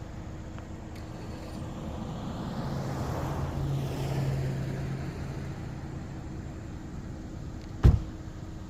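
Car road noise, a steady low rumble, with a passing vehicle swelling up and fading away around the middle. A single sharp thump near the end.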